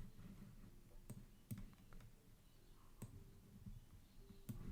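About five faint, separate clicks of a computer mouse, spaced irregularly over near-silent room tone.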